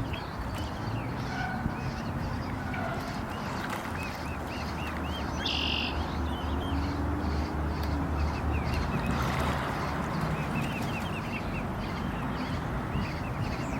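Swan cygnets peeping over and over in short, high chirps, with one louder call about five and a half seconds in, over a steady low rumble.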